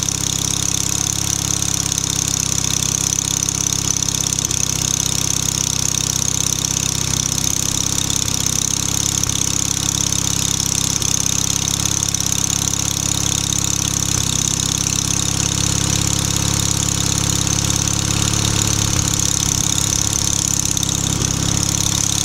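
A small engine running steadily at idle, with an even, unbroken low drone; the owner says it is developing a fuel-supply problem.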